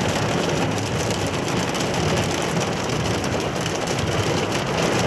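Hail and heavy rain pelting a car, heard from inside: a steady, dense clatter with no let-up.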